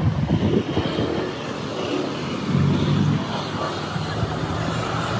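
Motor traffic rumbling past, with one vehicle passing louder about two and a half seconds in.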